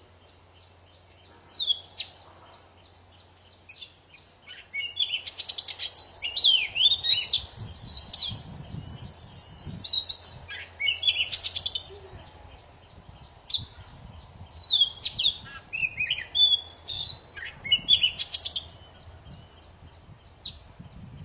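A kacer poci (Oriental magpie-robin) singing vigorously. Scattered short notes build into two long bouts of varied high whistles, slurred up and down, mixed with rapid clicking trills.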